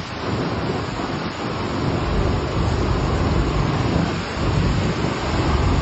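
Hurricane-force wind and rain buffeting the microphone: a dense, steady rush with heavy low rumbling that does not let up.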